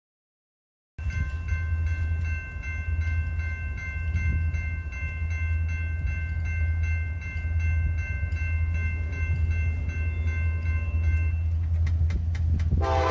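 Diesel locomotive rumble with a grade-crossing bell dinging about twice a second. Near the end the train horn comes in.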